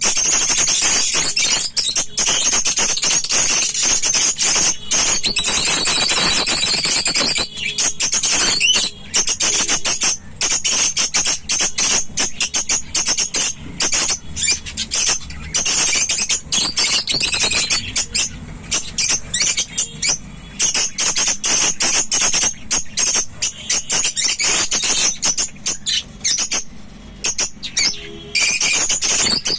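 A flock of budgerigars chattering and warbling, a dense steady stream of high-pitched chirps and squawks.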